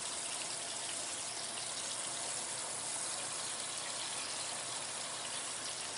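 Crappie fillets frying in hot olive oil and butter in a pan: a steady sizzle.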